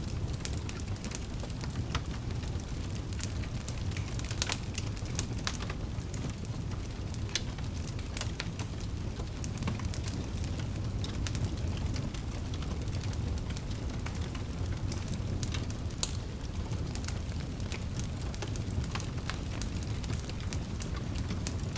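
Wood fire in a fireplace crackling: a steady low rumble of the flames with frequent sharp, irregular pops and snaps.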